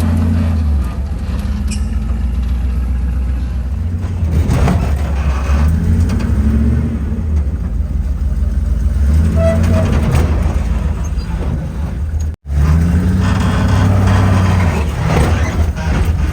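Rock-crawling truck's engine running loud, its pitch rising and falling in repeated revs as it works. The sound cuts out for an instant about twelve seconds in.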